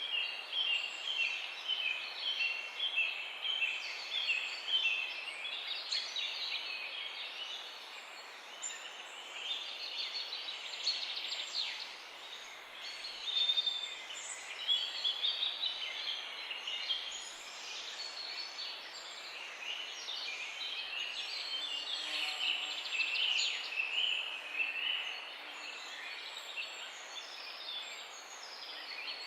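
A chorus of several songbirds singing over one another, with rapid runs of repeated notes and trills, over a steady hiss of background noise.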